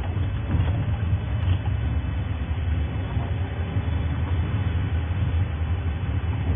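Safari game-drive vehicle's engine running steadily as it drives along, a low drone with road and rattle noise.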